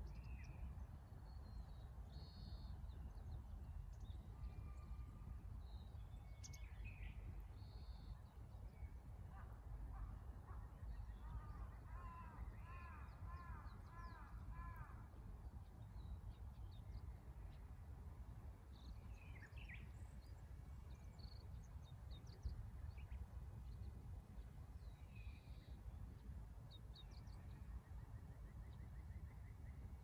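Wild birds calling over a low steady rumble outdoors. Short calls come here and there, with a run of quick repeated calls in the middle.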